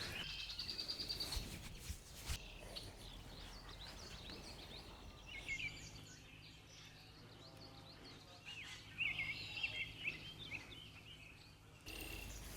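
Faint bird calls: short, quick chirps in two groups, about five seconds in and again around nine to ten seconds, with a faint fast trill in the first second or so.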